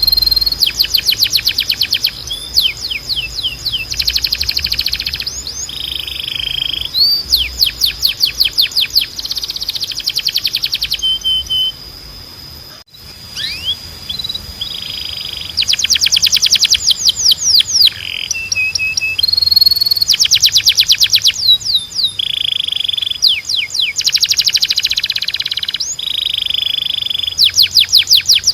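Canary singing: fast trilled rolls of rapidly repeated notes alternating with short held whistles. There is a brief lull about twelve seconds in.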